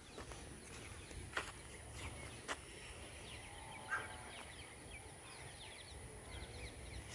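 Faint outdoor farmland ambience: distant birds calling in many short falling chirps, with a few sharp clicks and a low wind rumble.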